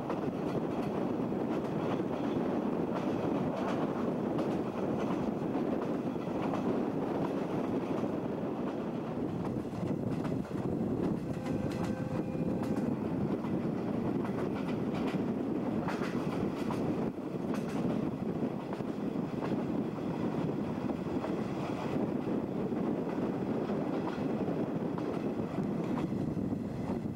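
Running noise of a 50-series passenger coach train hauled by a DE10 diesel locomotive, heard through an open coach window: a steady rumble with wind, and scattered clicks of the wheels over rail joints.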